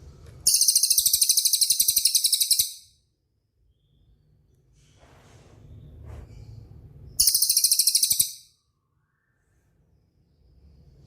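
A songbird's very fast rolling trill ('rol speed'), heard in two loud high-pitched bursts: one of about two seconds near the start, and a shorter one past the middle. A low hum rises between them.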